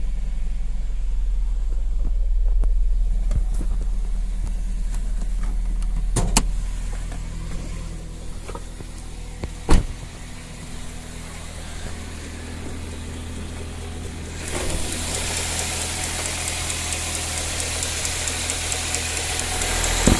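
A 2000 Toyota Celica GT's 1.8-litre four-cylinder 1ZZ-FE engine idling steadily with a quiet ticking, which the owner traced to a partially ripped serpentine belt. Two sharp clicks come about 6 and 10 seconds in. A louder hiss joins about two-thirds of the way through.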